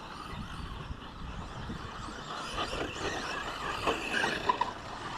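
RC short course trucks racing round a track: a steady mix of motor whine and tyre noise, with a few louder short passes near the end.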